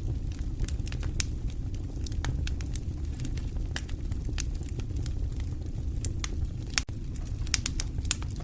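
Fire crackling and popping, with irregular sharp snaps over a steady low rumble of the flames.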